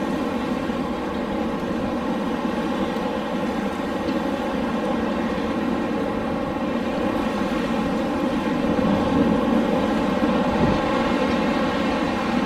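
Wind blowing in a steady rush with a faint even hum in it, swelling a little about two-thirds of the way through.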